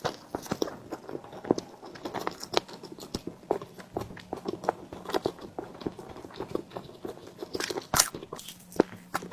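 Close-miked chewing and mouth sounds of someone eating steamed bread: a run of irregular small clicks and smacks, with a sharper one about eight seconds in.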